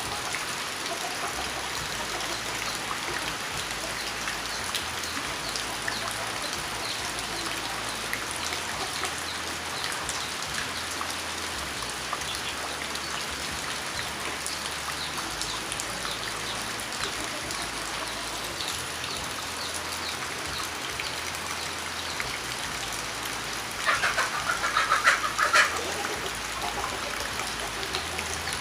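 Light rain or dripping water pattering steadily, with many small scattered drops. Near the end a louder sound stands out for about two seconds.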